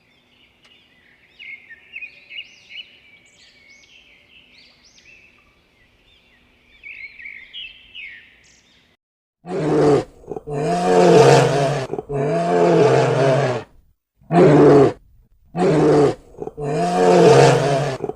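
Faint high chirping for the first half, then a large animal roaring in five loud, drawn-out calls, each about one to two seconds long.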